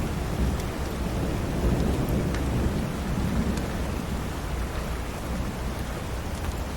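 Steady rain with a continuous low rumble beneath it and a few faint ticks scattered through.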